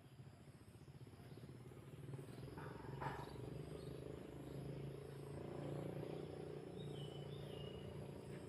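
A low, steady motor rumble that swells and then eases off, like a vehicle passing at a distance, with a short bird chirp about seven seconds in.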